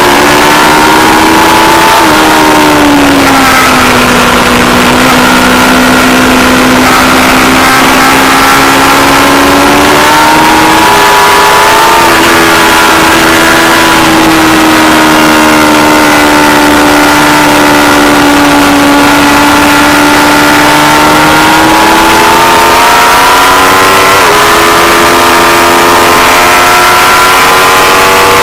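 Aprilia Tuono V4 Factory's V4 engine under hard track riding, its pitch dropping sharply about two seconds in, then swelling and sagging through long sweeps, with abrupt steps in pitch at gear changes. The recording is loud and near full scale throughout, with a constant rushing hiss.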